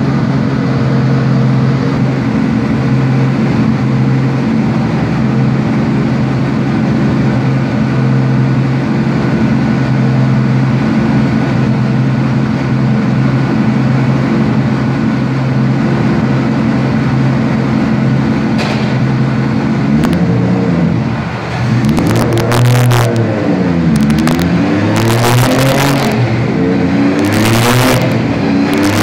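Turbocharged drift car engine running on a chassis dynamometer, held at a steady speed for about twenty seconds. Then it revs up and down repeatedly, with short loud bursts near the end.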